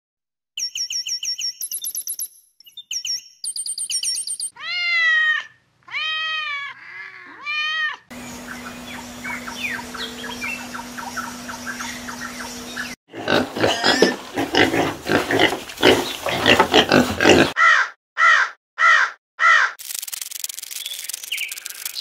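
A string of different animal calls, one after another with short gaps: fast repeated high chirps, then three calls that rise and fall in pitch, then rapid pulsed calls and a few short calls near the end.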